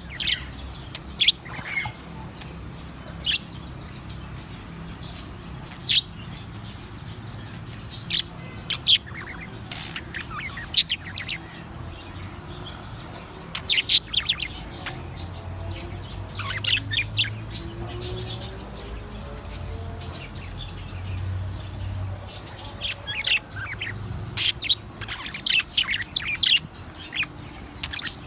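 Pet parrots calling with short, shrill chirps and squawks that come scattered and get busier near the end, over a steady low hum.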